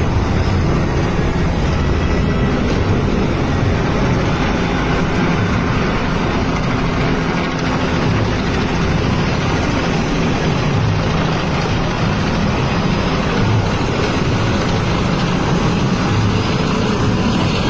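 Helicopter flying overhead, its rotor and engine running steadily and loudly.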